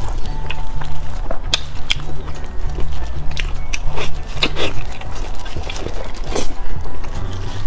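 Wet chewing, biting and lip-smacking of someone eating soft slices of sauced meat, heard as short clicks, over background music with a stepping bass line.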